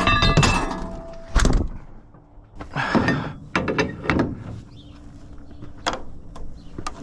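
A run of hard knocks and clanks, the first ringing briefly like struck metal, a heavy thump about a second and a half in, then a few scattered clicks and rattles.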